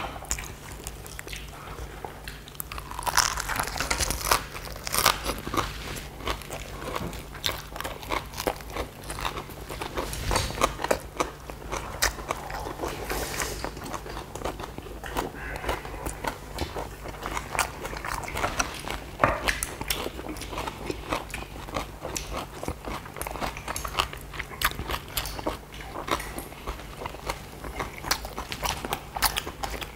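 People chewing and crunching mouthfuls of fresh leaf wraps (lettuce and other greens around rice and duck bulgogi), close to the microphone: a dense, irregular run of crisp crunches and mouth clicks. A faint steady low hum sits underneath.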